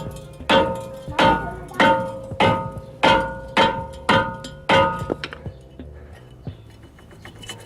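Hammer striking a Skoda Fabia front brake disc to knock it free of the hub: about a dozen blows, a little under two a second, each leaving the cast iron disc ringing. The blows stop about five seconds in, followed by a few lighter knocks.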